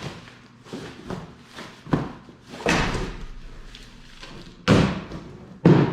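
Cardboard shipping box being handled and opened: rustling and a series of sharp knocks and thumps, the loudest three in the second half.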